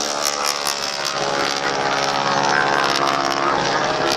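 Radial engines of Boeing Stearman biplanes running steadily as the aircraft fly past.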